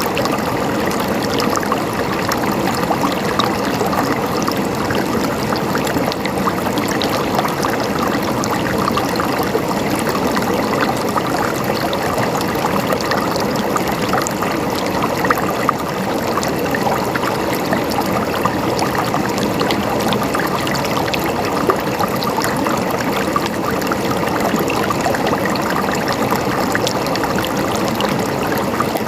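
Running water trickling and gurgling in a steady babble, dotted with many tiny splashes.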